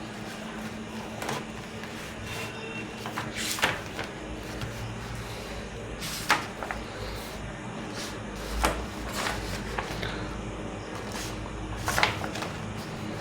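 Pages of a paperback picture book being turned by hand, a sharp papery swish every two to three seconds with lighter rustles of paper in between, over a faint steady hum.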